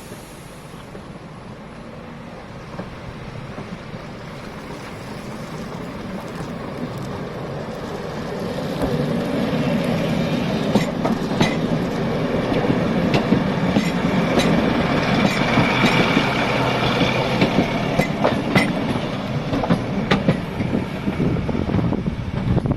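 A heritage train approaching and passing close by: its rumble grows steadily louder for about eight seconds, then the wheels clatter over the rail joints in a run of sharp clicks, with a brief high ring from the wheels partway through the pass.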